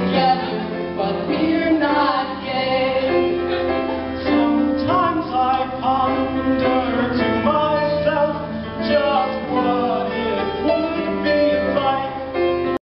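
Singing with instrumental accompaniment, a song in progress that cuts off abruptly at the end.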